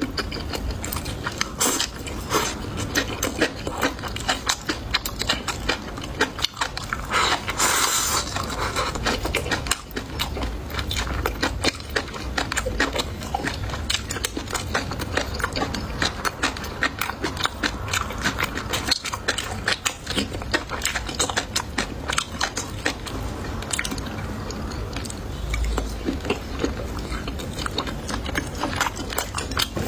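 Close-miked chewing and biting: a person eating, with many small wet clicks and crunches.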